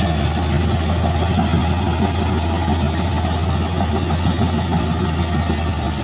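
Bulldozer's diesel engine running steadily under load, with short high squeaks now and then from its steel tracks.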